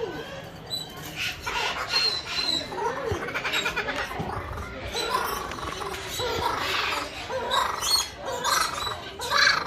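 Parrots squawking and chattering, with many short, irregular calls one after another.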